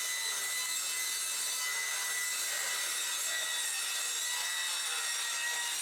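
A power tool cutting a recycled metal roof sheet, a steady high-pitched rasping noise held without a break.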